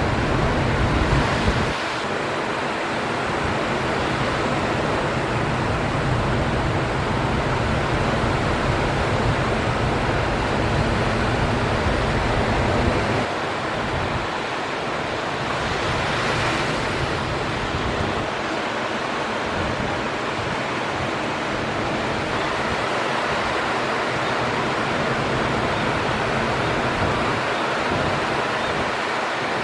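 Ocean surf washing steadily, with a brighter hiss of breaking water about halfway through. Wind rumbles on the microphone through the first half, then drops away.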